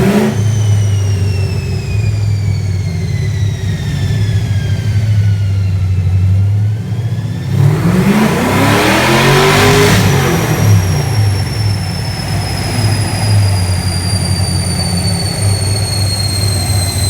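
Car engine on a chassis dyno, running at a low steady speed while a high whine from the spinning rollers and driveline falls slowly in pitch as they coast down. About eight seconds in, the engine revs up and back down over a couple of seconds, and the whine rises and then falls again.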